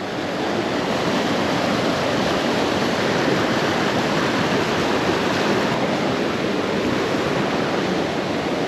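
A small river's flowing water rushing steadily.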